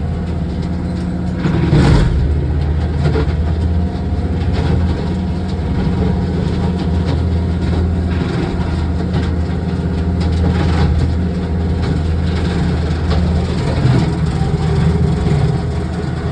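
Kubota tractor engine running steadily under load while pushing over locust trees, with a loud crack about two seconds in and a few fainter knocks and snaps later.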